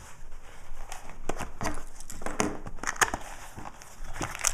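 Trading card hobby box and its packs being handled: irregular crinkling, rustling and small clicks of cardboard and wrapper.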